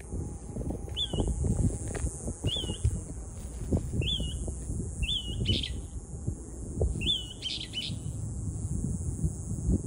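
A small bird repeating a short rising-then-falling chirp about every second and a half, five or six times, with a couple of harsher, raspier notes in between, over a steady low rumble.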